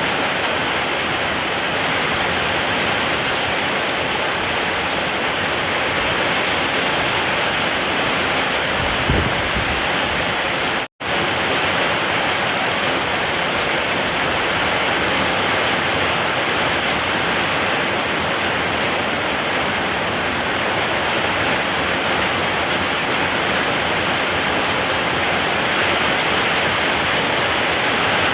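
Steady heavy rain, a dense even hiss, with a brief low thump about nine seconds in. The sound cuts out completely for a split second about eleven seconds in, then resumes: a splice in the looped recording.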